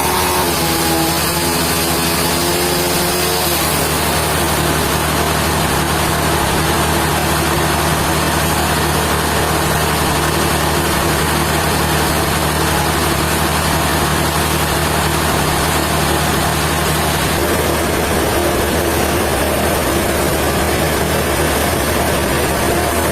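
Sawmill machinery running steadily: a loud, constant hum with a dense hiss over it. A pitched whine at the start dies away within the first few seconds, and the low hum shifts about three quarters of the way through.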